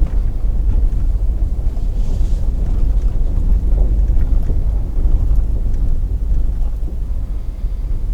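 Truck driving slowly, a steady low rumble of engine and road noise.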